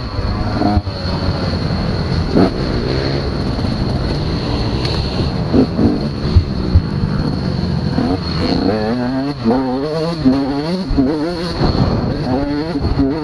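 Motocross bike engines running around a dirt track, their pitch rising and falling as the riders open and close the throttle. In the second half, one engine's note wavers rapidly up and down for a few seconds.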